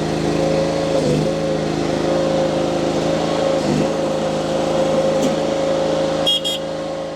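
Mini skid steer loader's engine running steadily, briefly dipping in pitch twice as load comes on, then fading out near the end.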